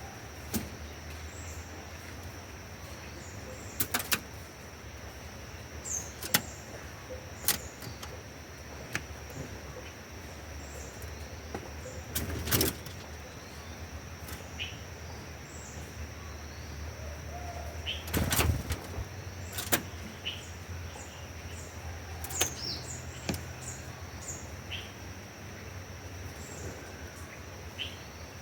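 Small birds giving short, high chirps scattered throughout, over a steady high-pitched insect-like whine and a low hum. Sharp taps come now and then, the loudest about 4, 12 and 18 seconds in.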